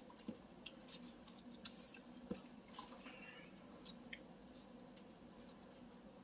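Faint scattered clicks and light rustles of snacks being handled and eaten at a table, over quiet room tone; they thin out after about four seconds.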